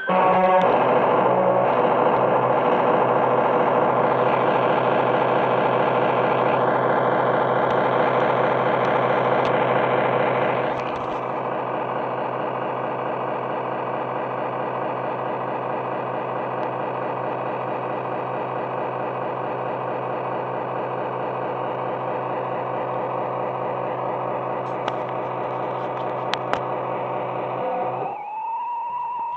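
A steady, many-toned drone, dense and unchanging, that drops a step in loudness about eleven seconds in and stops near the end.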